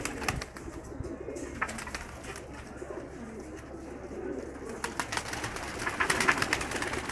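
Domestic pigeons in a loft cooing, several low coos overlapping. Clicking and rustling build up over the last two seconds.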